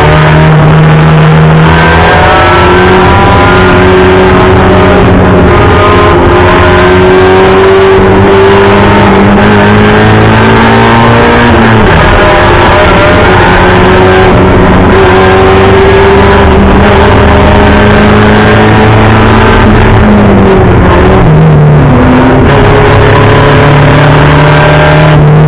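Mazda Miata Spec Miata race car's four-cylinder engine at full throttle, its pitch climbing slowly on long pulls. The pitch falls sharply about halfway through, then twice more near the end.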